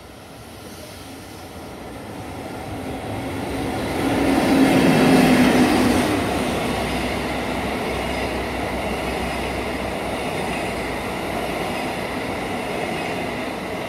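A train of new Tokyo Metro Hibiya Line 13000-series cars, being hauled unpowered on delivery, passes through the station: wheels clattering and rumbling on the rails. It grows louder as it approaches, is loudest about four to six seconds in as the head of the train passes, then goes on as a steady rolling clatter while the cars roll by.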